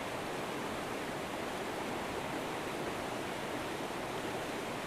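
River current flowing in a steady, even rush.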